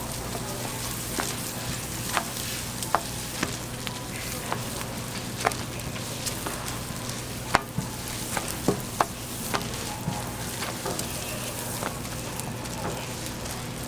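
Food sizzling on a street-stall toast griddle, a steady frying hiss broken by about a dozen irregular sharp taps and clicks.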